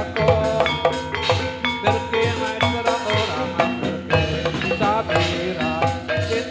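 Lively gamelan-style dance music: struck metallophones ring out in a dense, fast pattern over steady drum beats.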